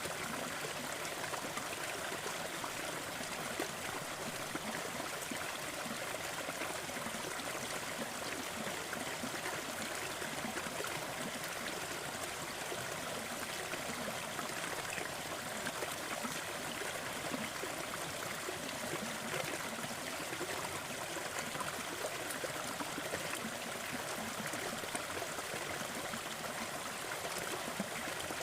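Crackling fireplace fire over steady brown noise: soft, scattered crackles and pops on an even, unchanging hiss.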